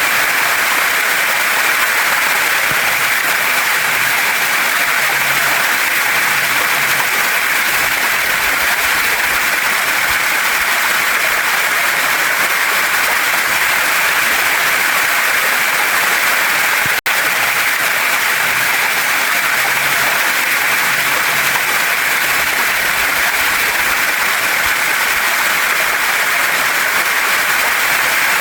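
Waterfall and mountain stream: water rushing steadily over rocks, a constant hiss. A momentary dropout about seventeen seconds in.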